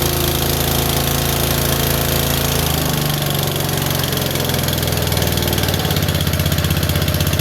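Old Ariens snowblower's small gasoline engine running cold at about −2 °F on 20W-50 oil. It runs steadily at first, then about three seconds in its speed drops, and near the end it chugs slowly with each firing beat audible, bogging down as if about to stall.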